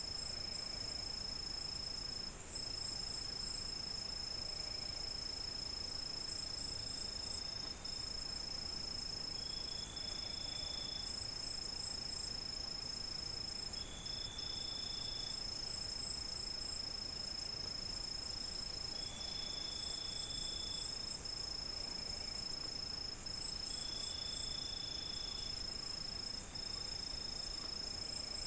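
Crickets calling at night: one unbroken high trill, with a denser chirring chorus above it. A slightly lower, shorter call comes in about six times, a second or so each, every four to five seconds.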